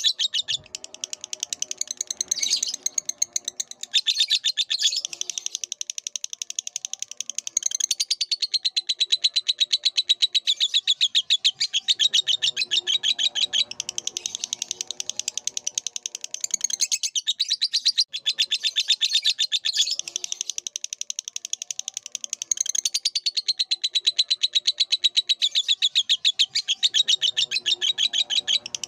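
Lovebird singing a long, fast chattering song of high, squeaky notes, going on with only brief breaks.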